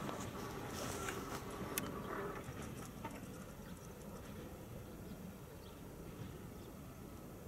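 A passing train fading into the distance: a few faint wheel clicks in the first couple of seconds, then a low rumble that slowly dies away.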